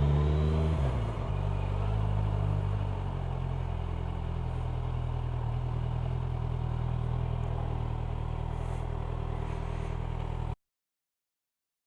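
Kawasaki Ninja 1000SX inline-four motorcycle engine heard from the rider's helmet: the revs fall in the first second or so and it settles to a steady idle. The sound cuts off abruptly shortly before the end.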